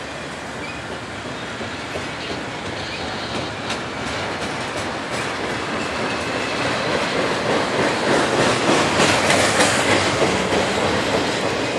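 Double-stack intermodal freight train rolling past close by, its steel wheels clacking over the rail joints, getting louder over the second half.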